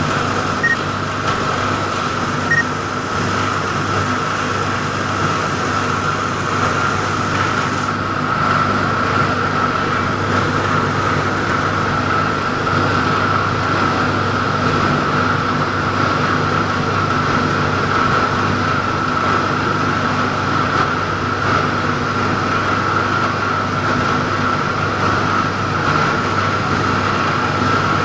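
Aluminium melting rotary furnace running steadily: a continuous, unchanging industrial noise of burner and blower with a low hum under it. Two short high pips sound about two seconds apart near the start.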